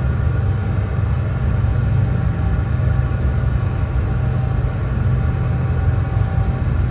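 Brown noise: a steady, unchanging deep rumbling hiss, heaviest in the bass, with a few faint steady tones above it.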